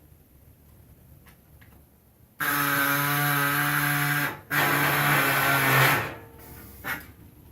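Pneumatic air saw running in two bursts of about two seconds and a second and a half, cutting, with a steady hum under a loud air hiss, then a short blip near the end.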